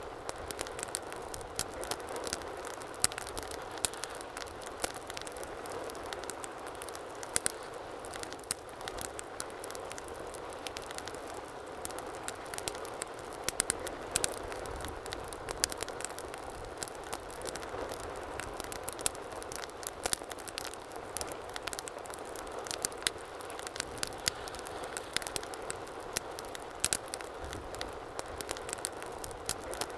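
Wood fire burning in a fireplace, crackling and popping steadily, with many sharp snaps every second over a soft bed of flame noise.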